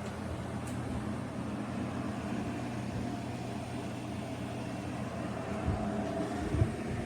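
Bosch Cool 2000 portable air conditioner running: a steady mechanical hum from its compressor and fan, with a few low bumps near the end.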